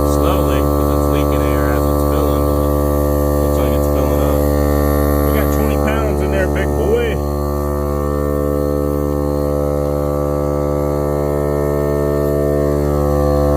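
Air compressor running steadily to inflate a flat car tire, a loud, even, many-toned hum. Faint chirps ride over it in the first half.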